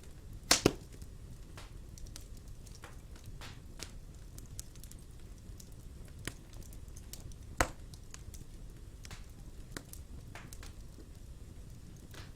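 Wood fire in a fireplace crackling, with scattered sharp pops over a low steady background; the loudest are a close pair of pops about half a second in and a single pop about seven and a half seconds in.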